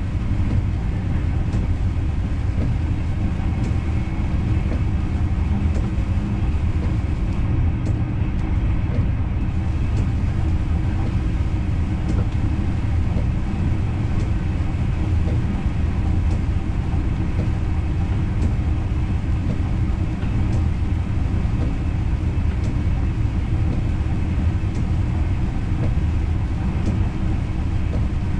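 NS Intercity train running steadily, heard from inside the driver's cab: a continuous low rumble of wheels on the rails, with faint scattered clicks.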